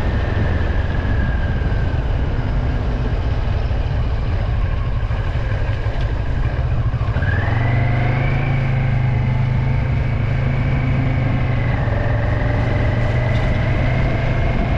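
A vehicle driving on a wet road: a steady low rumble with tyre hiss and a whine from the engine and drivetrain. The whine drops and then climbs again about seven seconds in, as with a gear change while accelerating.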